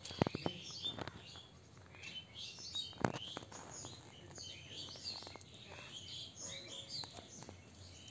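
Birds chirping, with many short high calls overlapping one another. A few faint clicks come through, the sharpest about three seconds in.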